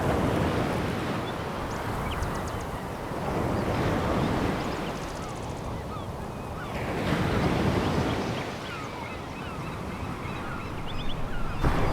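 Sea waves breaking and washing up a pebble beach, swelling and falling back about every three to four seconds.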